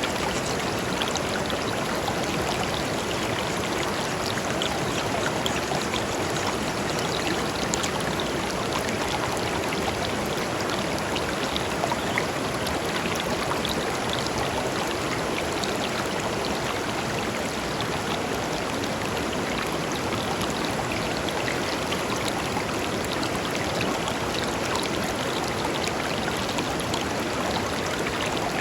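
A shallow river flowing steadily over stones, a constant rushing of water with many small splashes and trickles.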